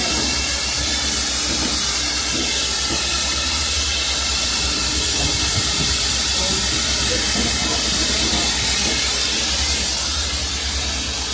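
Diesel engine of a heavy rotator tow truck running steadily with its PTO engaged, a fast low throb under a steady high hiss.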